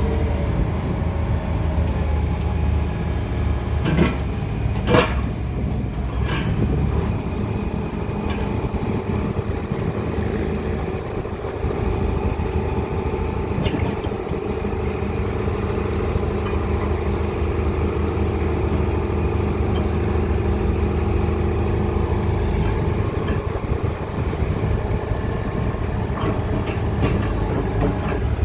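Heavy machinery's diesel engine running steadily, with a few sharp knocks about four to six seconds in.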